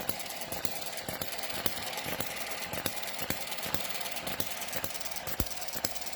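A miniature petrol hit-and-miss stationary engine (Eachine ET7, open crank) running with a fast light mechanical clatter. A louder sharp pop comes every second or so, set to a slow hit-and-miss rhythm by weak governor springs.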